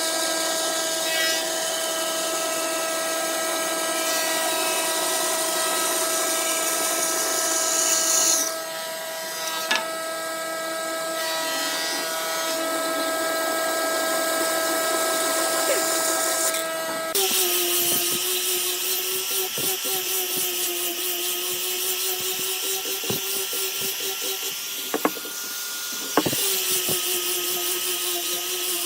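Wood lathe running, its motor giving a steady whine under the loud hiss of a tool cutting the spinning wood. About two-thirds of the way through the whine drops to a lower, wavering pitch with a pulsing rhythm, and a couple of sharp knocks come near the end.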